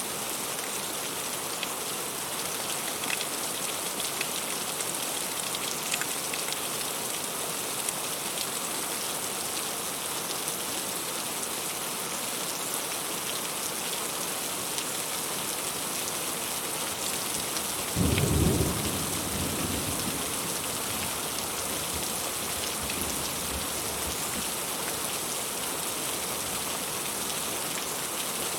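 Heavy rain falling steadily, with individual drops ticking sharply now and then. About two-thirds of the way through, a low clap of thunder breaks out and rumbles away over a few seconds.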